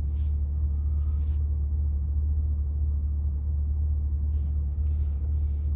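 2020 C8 Corvette's mid-mounted 6.2-litre V8 idling, a steady low rumble heard from inside the cabin, with a few faint brief rustles.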